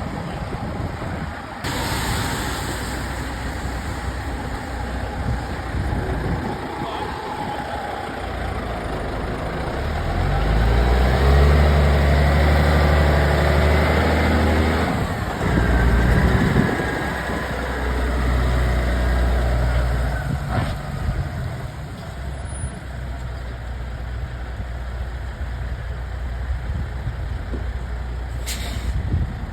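A heavy diesel engine running, its low note getting louder and steadier for several seconds about ten seconds in, dropping briefly, then holding again. A short hiss comes near the end.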